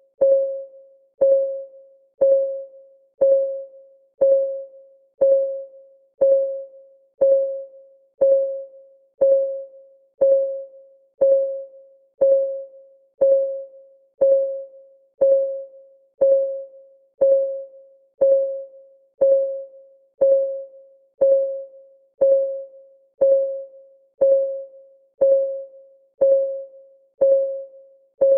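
Countdown timer's clock-ticking sound, one tick every second, even and unchanging. Each tick is a click with a short pitched ring that fades before the next.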